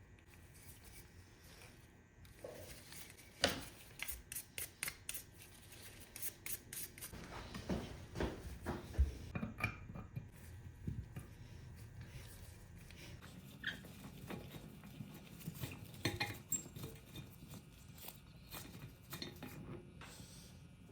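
Metal parts of an old hand plane being handled: a run of irregular clinks, taps and knocks of metal on metal and on a work surface.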